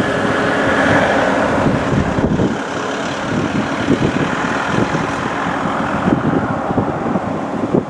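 A passing airliner's engine noise mixed with heavy wind buffeting the microphone, a steady loud rush that eases off slightly after the middle.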